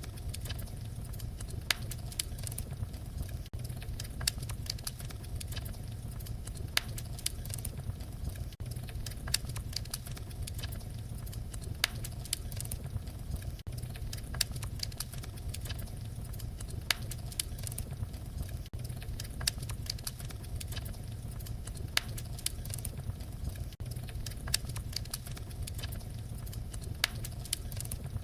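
Fireplace fire crackling: irregular sharp pops and snaps, a few standing out louder, over a steady low rumble.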